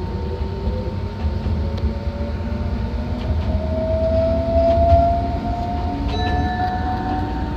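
Enoden electric train running on the rails, with a low rumble under a motor whine that rises slowly in pitch as the train gathers speed.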